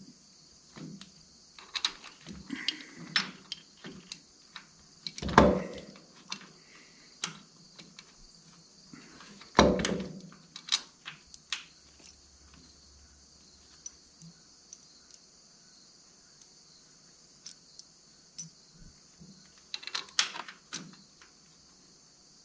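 Hand tools and steel bolts with lock washers clinking and clanking while a starter is bolted to a tractor: irregular small metallic clicks, with two louder knocks about five and ten seconds in and a flurry of clinks near the end.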